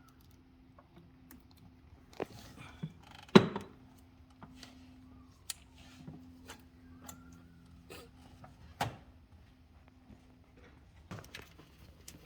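Scattered clicks and knocks of tools and metal parts being handled during engine work, the loudest knock about three seconds in, over a faint steady hum.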